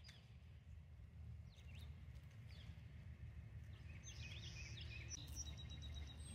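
Faint wild birdsong: scattered short chirps, with a quicker run of high chirps about four to five seconds in, over a low steady rumble.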